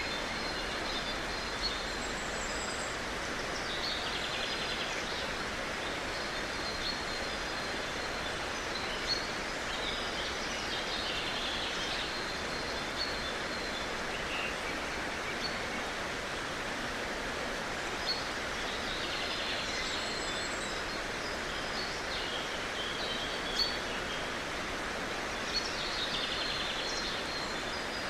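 Outdoor ambience: a steady hiss with birds calling on and off throughout in short high chirps and trills.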